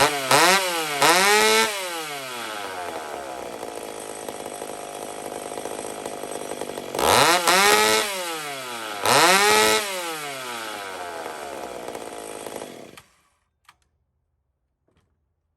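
Two-stroke chainsaw engine idling between quick throttle blips: two revs rising and falling at the start and two more partway through. It then stops about 13 seconds in.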